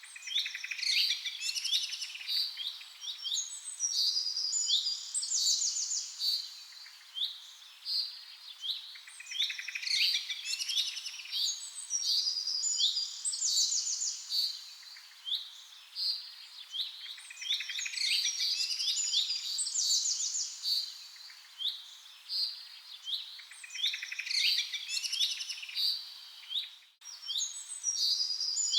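Birds chirping and calling together: waves of short, high chirps and fast trills every few seconds.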